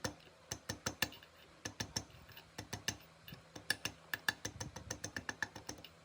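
Rapid, irregular series of sharp mechanical clicks coming in short bursts of several a second, stopping shortly before the end.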